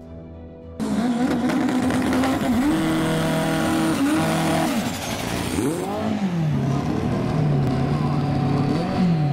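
Turbocharged four-cylinder Honda Civic drag car's engine held at high revs during a smoky burnout, cutting in suddenly about a second in. The engine note holds, steps up, then falls and settles lower, rising again near the end as the throttle is worked.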